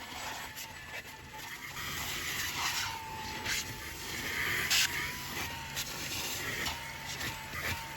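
Fanttik V8 Apex cordless handheld vacuum running: a steady, slightly wavering motor whine over airflow hiss, with scattered clicks and short rushes of noise, the loudest about five seconds in.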